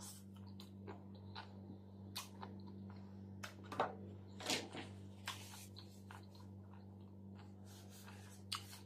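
Close-up chewing of a mouthful of crisp lettuce and chuka seaweed salad: irregular wet crunches and mouth clicks, loudest about four seconds in. A steady low hum runs underneath.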